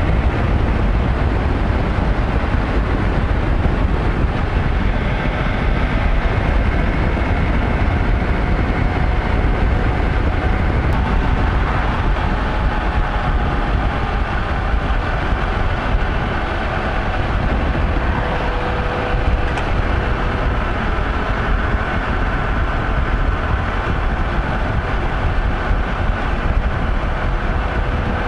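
Steady vehicle noise while travelling at a constant speed: a continuous low rumble with faint engine tones that drift slightly in pitch.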